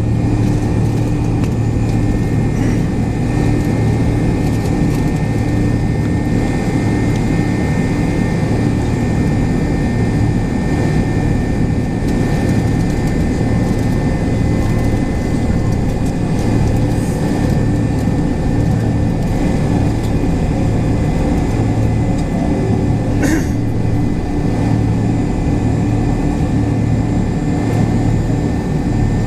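McDonnell Douglas MD-83's rear-mounted Pratt & Whitney JT8D jet engines running steadily, heard inside the cabin from a seat near the tail as a loud, even roar with a constant hum. A single soft click comes a little over three-quarters of the way through.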